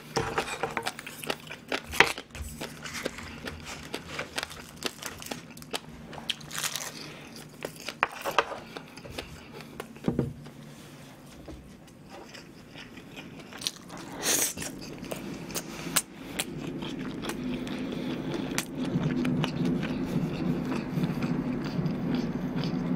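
Close-miked chewing and biting of food, wet mouth sounds with a few sharper crunchy bites, the loudest about fourteen seconds in, and denser, louder chewing in the last several seconds. Occasional light taps of chopsticks on the griddle and a faint steady low hum underneath.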